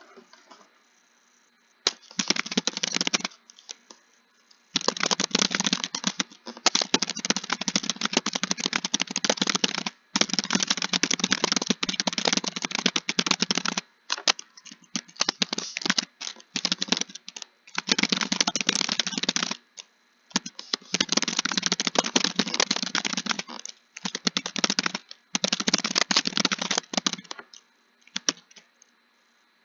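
Fast typing on a keyboard: runs of rapid key clicks, each a few seconds long, broken by short pauses.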